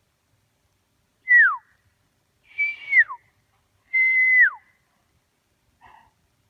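A person whistling three loud calls, each a held high note that drops sharply at the end, the kind of whistle used to call a dog back. A faint short sound follows near the end.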